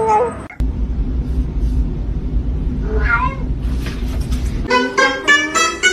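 A cat gives one short, falling meow over a steady low rumble. Near the end, plucked-string music begins.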